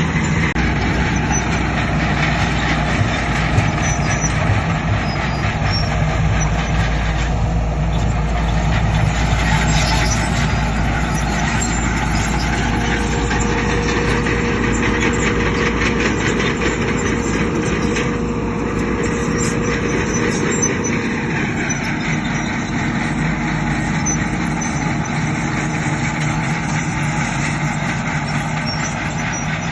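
Heavy diesel construction machinery running continuously. The low rumble thins out about two-thirds of the way through.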